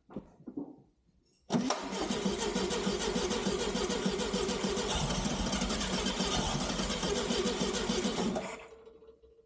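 A 1969 Volkswagen Beetle's air-cooled flat-four engine being cranked by its starter for about seven seconds on starter fluid after years of sitting, trying to start but not catching, then stopping abruptly. A few light clicks come just before the cranking begins.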